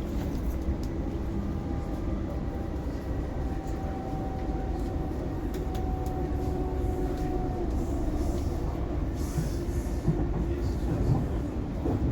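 Inside an Oscar H set electric train carriage on the move: a steady low rumble from the running train, with a faint whine for a few seconds in the middle.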